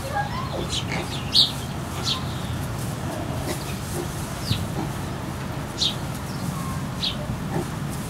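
Barn ambience: small birds giving a handful of short, high, falling chirps, the loudest about a second and a half in, over a steady low hum.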